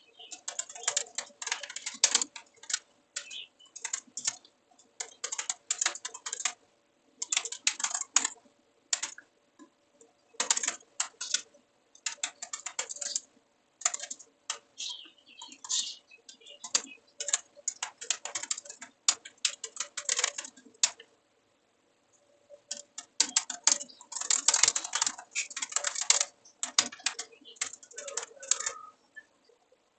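Typing on a computer keyboard: runs of quick key clicks in bursts with short pauses between them, and a longer pause about two-thirds of the way through, over a faint steady hum.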